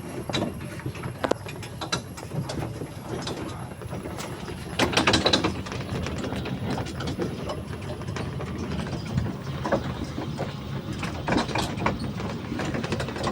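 Rattling and clicking of a train carriage in motion, a steady clatter with a louder stretch about five seconds in.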